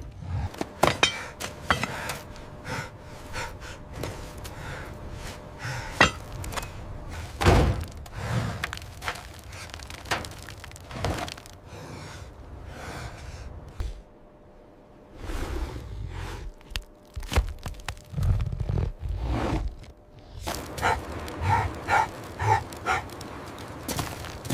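Irregular knocks, thuds and clanks, a few of them ringing like struck metal near the end.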